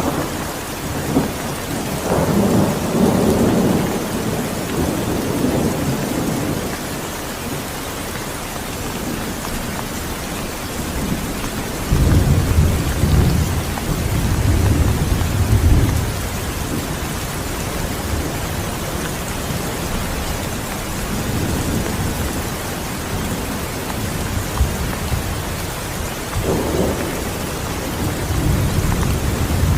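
Steady heavy rain with thunder rolling in the distance, the loudest rumble about twelve to sixteen seconds in and others near the start and end.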